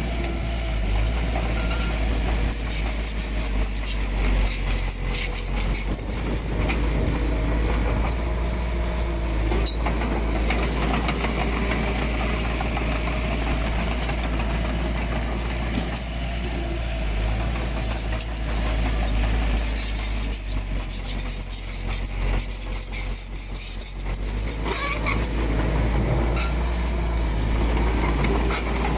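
Diesel engine of heavy earthmoving machinery running steadily, with two stretches of high metallic squeaking and clattering from the working machine.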